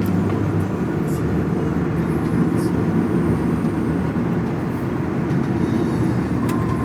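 Steady low rumble of a moving taxi, engine and tyre noise on the road heard from inside the cabin.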